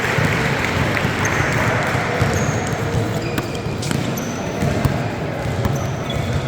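Basketball game in a gym: a ball bouncing on the court and sneakers giving many short, high squeaks on the floor, over a steady hum of crowd voices.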